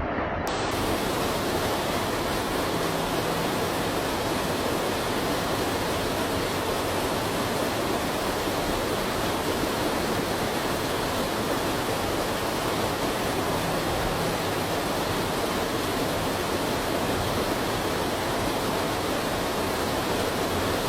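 Steady, unbroken rushing noise of fast-moving water.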